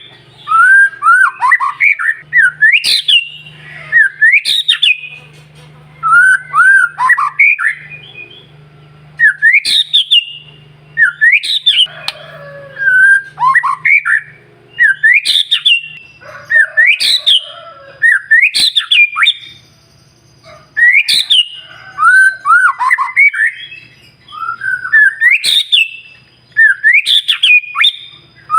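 White-rumped shama (murai batu) singing in short, loud phrases of whistled notes that slide up and down, broken by sharp clicks. The phrases repeat every second or two. It is a pancingan lure song, meant to set other shamas singing.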